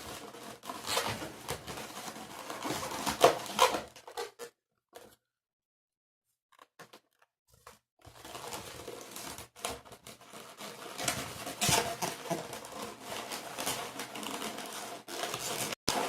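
Latex modelling balloons being handled and twisted: rubber rubbing, scraping and crinkling with scattered clicks, broken by a few seconds of silence about four seconds in.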